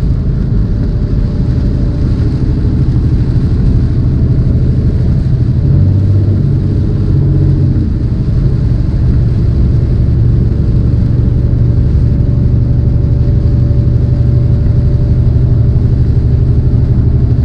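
Semi-truck's diesel engine and road noise heard inside the cab while driving in heavy rain, a steady low drone over a wash of rain and wet-tyre noise; the engine note changes briefly about six to eight seconds in.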